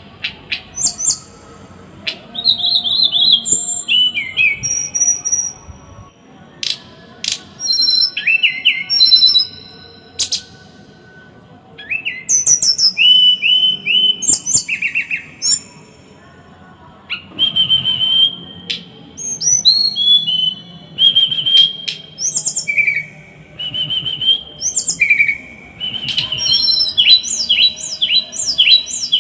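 A small songbird singing in bursts of rapid, sharp repeated notes, a few seconds of song followed by short pauses. This is the dense, harsh 'tembakan' phrasing used in masteran tutor recordings for cage birds.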